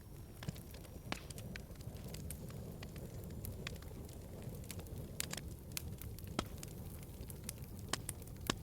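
Wood fire burning in a fireplace: a steady low rush of flames with frequent, irregular sharp crackles and pops, the loudest pops near the end.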